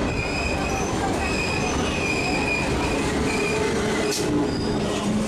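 Suburban electric multiple-unit local train running in alongside on the next track, its wheels rumbling on the rails with a high-pitched squeal that comes and goes. A short hiss about four seconds in.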